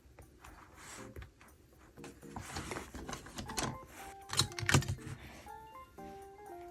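Paper and stationery being handled while decorating a diary: a rustle through the middle and a few sharp clicks, the loudest near the end, over soft background music.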